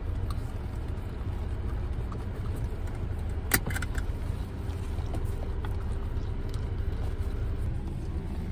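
Steady low rumble of a car engine idling, heard from inside the cabin, with one sharp click about three and a half seconds in.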